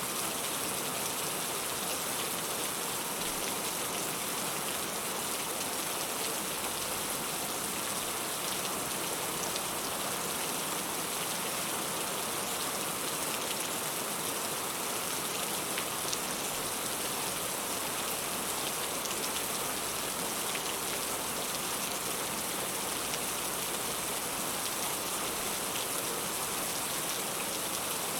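Heavy rain falling steadily: an even hiss with scattered drops ticking.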